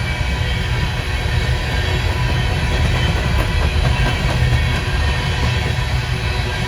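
Empty coal hopper cars of a freight train rolling past, a loud, steady rumble and rattle of steel wheels on the rails.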